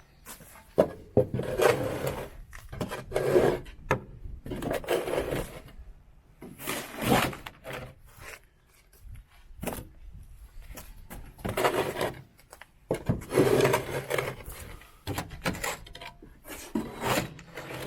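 Hand scraper blade dragged across a truck bed in repeated scraping strokes, about one every two seconds, with short pauses between them.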